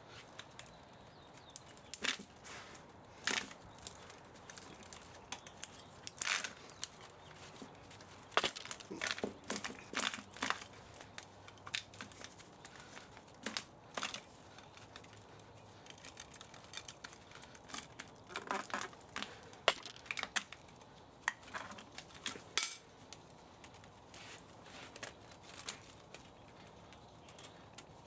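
Irregular clicks, taps and short rasping scrapes of hand tools working on metal parts while an old spa motor is taken apart for scrap.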